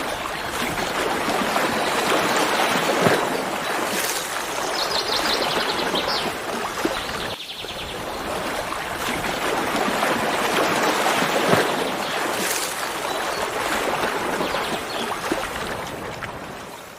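Steady rushing of running water, with a short series of high chirps about five seconds in. The sound cuts off abruptly at the end.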